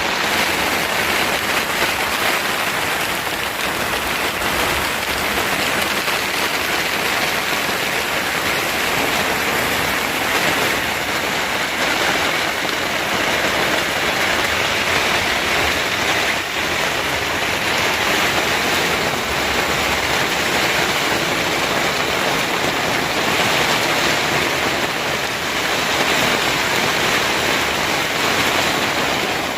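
Steady, loud hiss of heavy rain falling in a storm.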